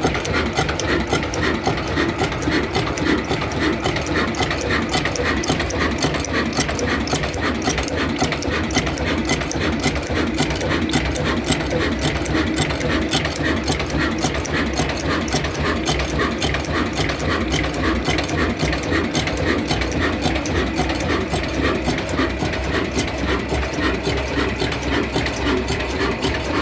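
Old diesel engine running steadily, with a fast, even knocking rhythm.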